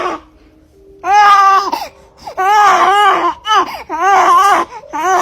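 A voice wailing in repeated drawn-out cries, about four of them, each just under a second long with a wobbling pitch.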